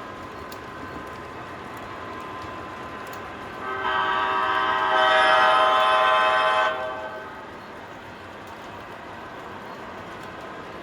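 MTH model diesel locomotive's electronic sound system blowing its multi-chime horn for about three seconds, starting about four seconds in, louder in its second half and cutting off sharply. Under it, the steady running sound of the model trains.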